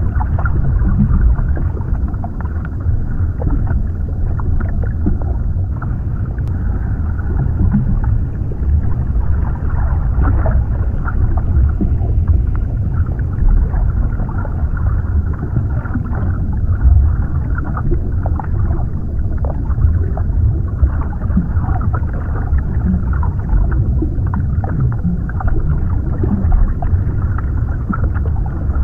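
Underwater ambience: a steady, deep low rumble with faint crackling ticks scattered through it.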